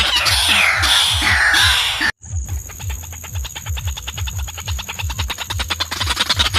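Watercock calling: a fast run of deep, booming notes, about four a second, with higher falling call notes over them in the first two seconds. The sound cuts out for a moment about two seconds in, then the same calling repeats.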